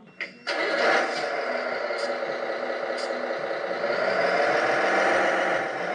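Servonaut sound module in an RC Peterbilt 389 truck playing a simulated truck engine through its small speaker. It starts about half a second in and runs steadily, getting a little louder in the second half.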